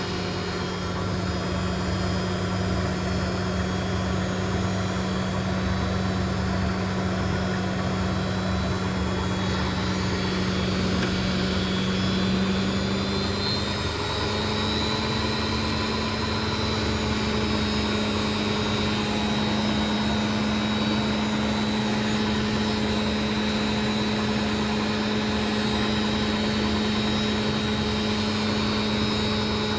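Indesit washing machine on a 1000 rpm spin, the motor and drum running with a steady whine. The whine rises slightly in pitch about halfway through, then holds steady.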